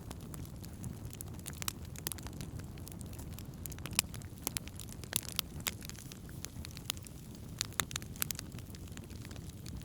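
Wood campfire burning, crackling with irregular sharp pops over a steady low rush of flame, one louder pop about four seconds in.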